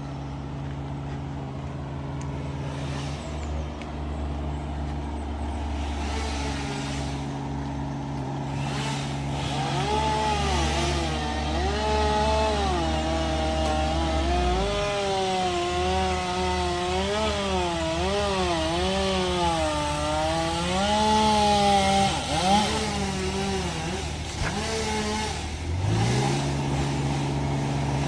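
An engine running steadily, joined in the middle stretch by a chainsaw whose pitch rises and falls as it revs and cuts. About halfway the deep engine hum drops off, and near the end an engine note rises back up.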